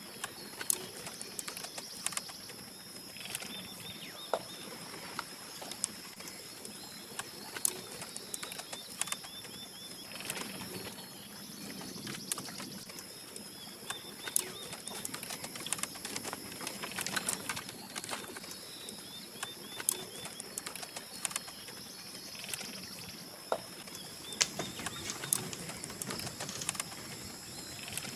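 Outdoor ambience of birds calling in short repeated chirp series, over a steady high-pitched ringing drone, with scattered sharp clicks and knocks.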